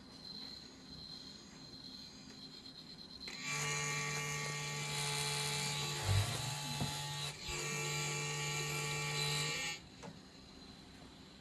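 DJI Zenmuse Z-15 gimbal's brushless motors buzzing with a loud, steady, pitched buzz for about six seconds, dropping out for a moment partway through, with a low thump midway. This is the fault that appears after initialisation on every startup of a gimbal that had worked fine for 20 flights.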